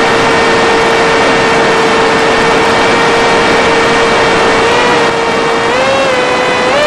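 Electric motor and propeller of a Skyfun FPV flying wing, running at a steady whine over a rush of air noise. About five seconds in the pitch steps up, then starts to waver up and down.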